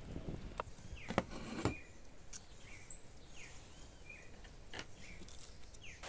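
Small sharp clicks and taps of a screwdriver working on a hair dryer's plastic housing as its two screws are taken out, about five clicks spaced irregularly. Faint bird chirps in the background.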